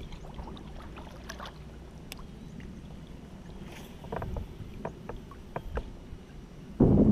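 Light knocks and clicks against a low steady rumble from a fishing kayak on the water. A sudden loud rushing noise starts near the end.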